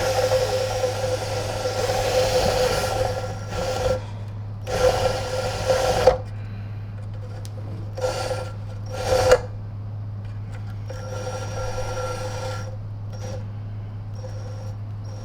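An abrasive rubbing on the copper commutator of a vacuum cleaner motor's armature, polishing off corrosion, in several bursts of one to three seconds, each with a steady pitched whine.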